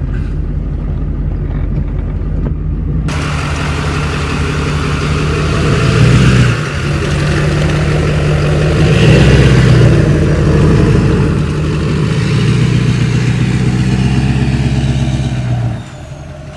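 Pickup truck engine running as the truck drives off, with a deep, steady note that swells louder twice, around six and nine seconds in. A rushing noise joins about three seconds in, and the sound drops away suddenly shortly before the end.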